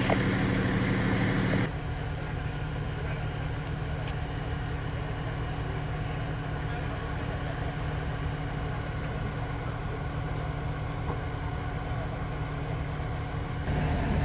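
An engine idling steadily with a low hum. The level drops abruptly a couple of seconds in and comes back up near the end.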